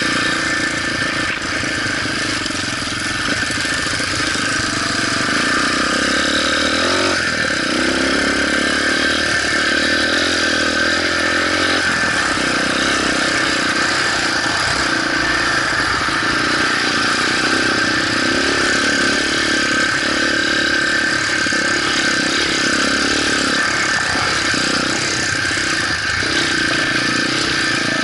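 Motorcycle engine running steadily, its pitch shifting a couple of times.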